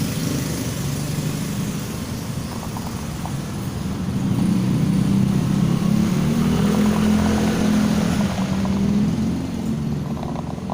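A vehicle engine running steadily, growing louder about four seconds in and easing back near the end.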